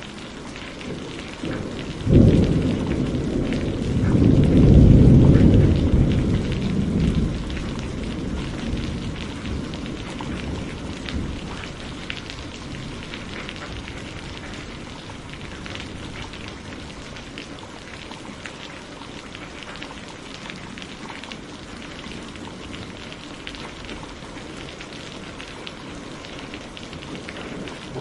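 A low rolling rumble of thunder starts suddenly about two seconds in, swells for a few seconds and slowly dies away. Under it runs a steady bed of fine crackles and patter.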